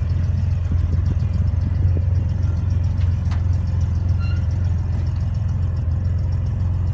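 Chevrolet S-10 mini truck's engine idling steadily, a low even rumble.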